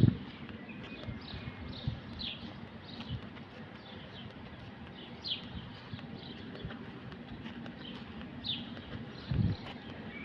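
A small bird chirping over and over: short, high, falling notes about every half second. Two dull low thumps come through, one at the very start and one near the end.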